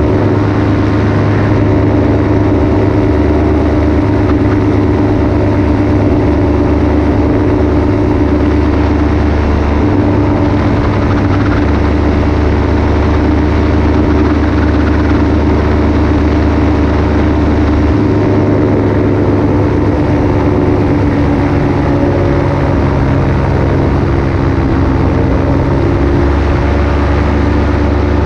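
Paramotor engine and propeller running steadily at cruise power in flight, its pitch drifting slightly up and down in the second half as the throttle is eased.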